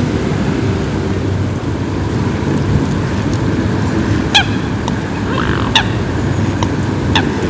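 Steady rain over a lake, with a water bird giving three short honking calls in the second half, about a second and a half apart.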